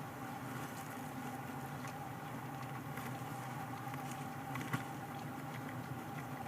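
Steady electrical hum and hiss from a nest-box camera microphone, with scattered faint clicks and one sharper click about three-quarters of the way through.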